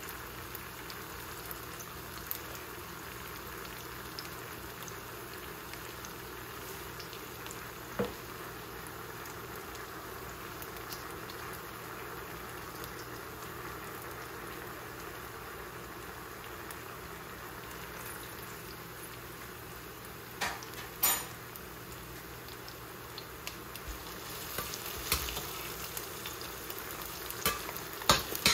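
Onion, garlic and green chili frying in a stainless steel pan: a steady sizzle. A few sharp clicks of a metal spatula against the pan near the end as they are stirred.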